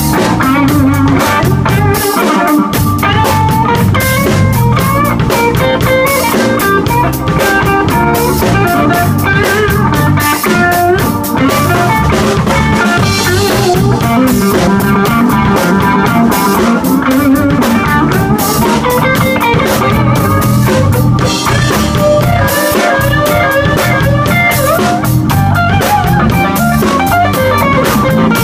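Live blues band playing: guitar lines over a drum kit keeping a steady beat.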